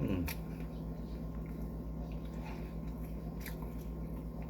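A person chewing a mouthful of hot dog close to the microphone, with a few sharp wet mouth clicks. A steady low hum runs underneath.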